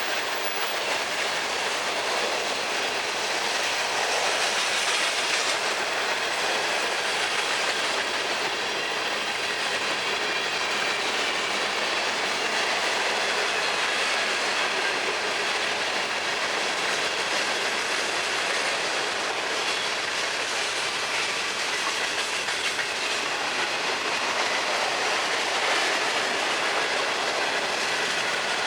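Freight train cars rolling steadily past, with the continuous rumble and clatter of wheels over the rails.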